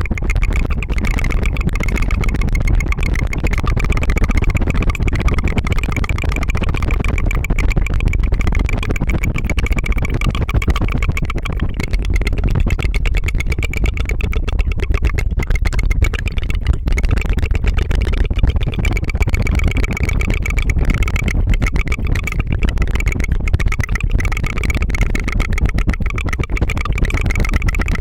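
ASMR tongue fluttering close to the microphone: a rapid, steady buzzing trill that keeps going without a break.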